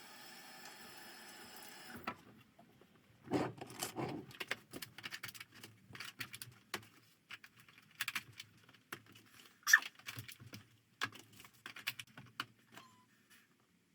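A steady hum that cuts off abruptly about two seconds in, followed by a run of irregular clicks, taps and knocks, with a sharper knock near the ten-second mark.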